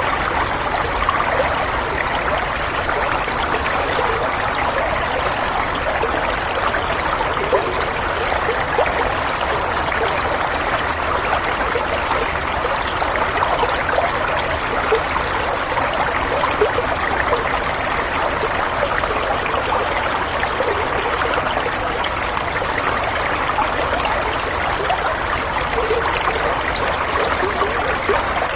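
Running water flowing steadily, an even rushing trickle with no breaks.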